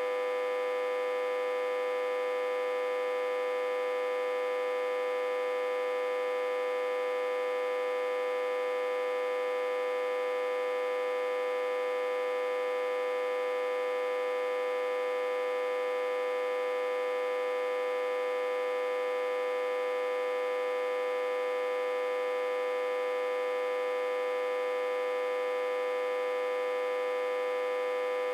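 Autotransformer humming steadily with one strong tone and many overtones, unchanging throughout, driven at about 60–80 V while reverse-connected to a step-down transformer.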